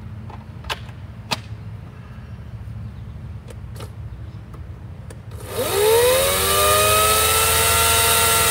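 EGO 14-inch cordless electric chainsaw (CS1400) briefly switched on, after a couple of clicks. Its motor whines up to speed and then runs at a steady high pitch, with the chain hissing.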